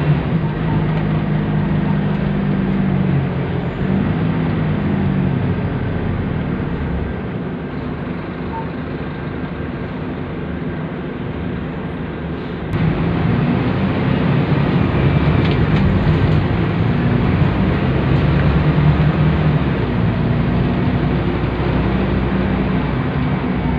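Scania K280UB bus's diesel engine running under way. The engine note drops and eases off for a few seconds, then rises sharply about halfway through as it pulls again, with the pitch stepping down a couple of times.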